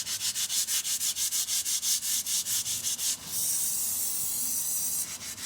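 Rapid back-and-forth hand scraping of old grease and gunk off a Suzuki Samurai's front steering knuckle ball, about eight strokes a second. About three seconds in it turns into a steady scratchy hiss for a couple of seconds, then the quick strokes return near the end.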